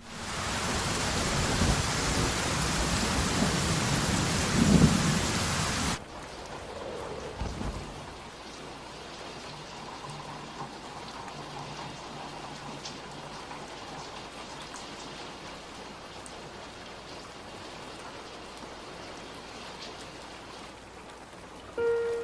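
Heavy rain pouring, with a low rumble of thunder about five seconds in. About six seconds in it cuts abruptly to a much quieter, steady rain, which runs on until soft piano notes come in at the very end.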